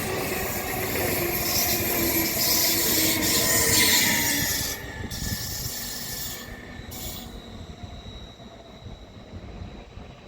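A train running on the rails with its wheels squealing. The loud noise drops off abruptly about halfway through and then fades away.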